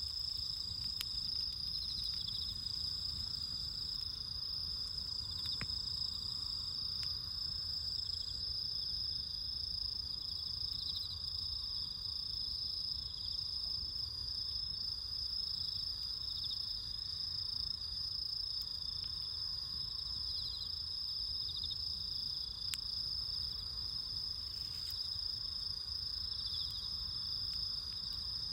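Steady high-pitched trilling of insects, with a second insect call pulsing in every couple of seconds. Under it, a low rumble and a few sharp pops from a crackling bonfire.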